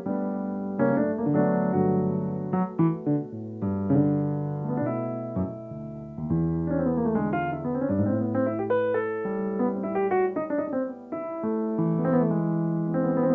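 Solo piano playing a flowing accompaniment of sustained chords with melody notes over them.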